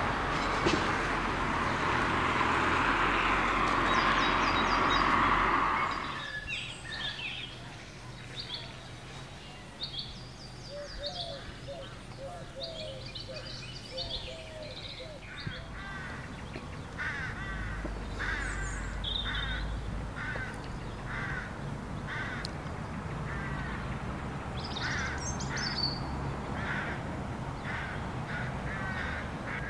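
Wild birds singing outdoors: many short, repeated chirps and phrases, with a few lower calls a little before the middle. For the first six seconds a loud steady noise covers the birds, then cuts off suddenly.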